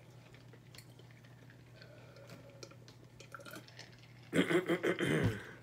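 A short gurgling slurp of liquid lasting about a second, near the end, after a few quiet seconds of faint small clicks.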